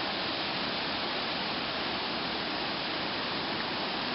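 Steady rush of a creek running high and fast, swollen by heavy rain and snowmelt.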